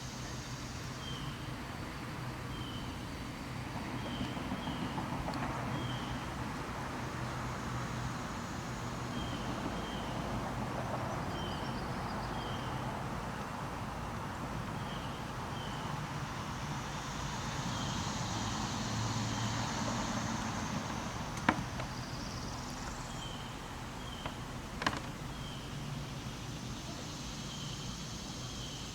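Outdoor bayou ambience: a high insect buzz that swells and fades in waves, short chirps repeated every second or so, and a low steady rumble underneath. Two sharp clicks come in the last third.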